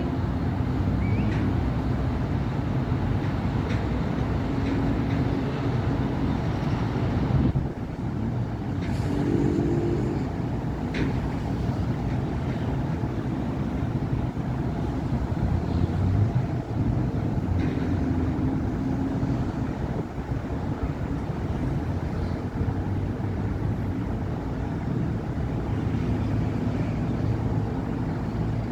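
Steady city avenue traffic: cars and heavier vehicles passing in a continuous rumble of engines and tyres, with engine notes rising and falling as vehicles go by and a short lull about seven and a half seconds in.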